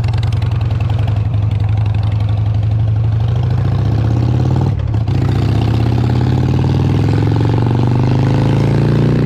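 Harley-Davidson Sportster 883's air-cooled V-twin running, with a brief drop about five seconds in, then its pitch rising steadily as it accelerates.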